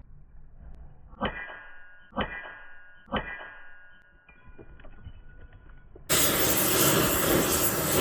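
Three ringing hammer blows on metal about a second apart, followed about six seconds in by a loud, steady hiss that starts suddenly.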